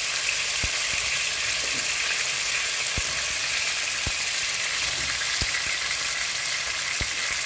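Chicken pieces with garlic and red onion sizzling steadily in hot olive oil in a frying pan, with a few soft low knocks now and then.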